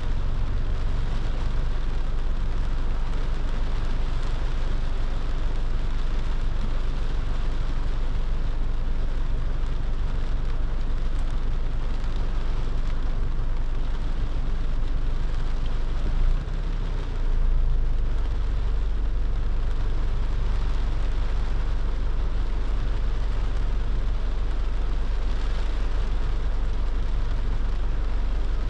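A car driving in the rain: a steady low rumble of road and engine noise under an even hiss of rain and wet tyres, briefly dipping and surging about sixteen seconds in.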